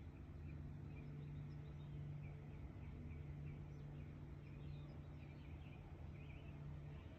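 Faint outdoor ambience: small birds chirping over and over, several short calls a second, over a steady low hum.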